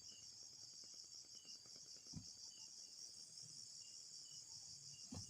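Insects, crickets by the sound of it, trilling steadily in a high, finely pulsing chorus, with faint short chirps under it. A single soft thump comes about two seconds in.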